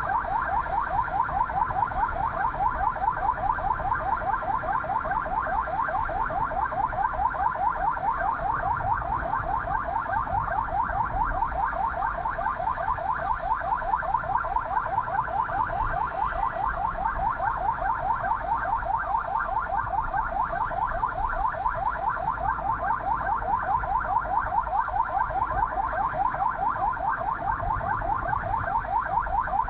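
Ambulance siren in fast yelp mode, a pitch sweep repeating about three times a second without a break, over a low rumble.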